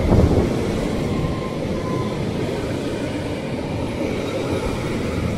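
JR Hokkaido commuter train running in along the platform, its cars rumbling past on the rails. It is loudest right at the start as it draws alongside, then keeps up a steady rumble.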